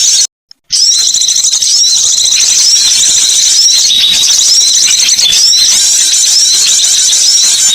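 Loud, dense high-pitched twittering and chirping of small songbirds, a bird-luring call recording with the same chirp figures repeating over and over. The sound cuts out completely for a moment about half a second in, then resumes.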